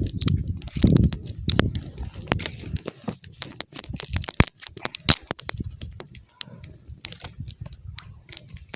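Dense sharp snaps and crackles of twigs and kindling at a small campfire being lit, thinning out towards the end. Gusts of wind buffet the microphone during the first two seconds.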